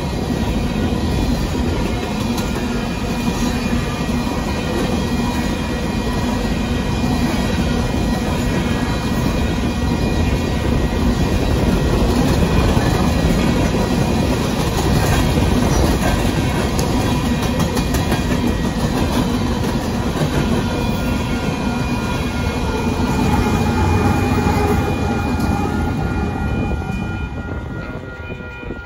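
Coal train cars rolling past close by: a steady rumble with the clatter of wheels over the rails. Near the end the last car goes by and the noise falls away.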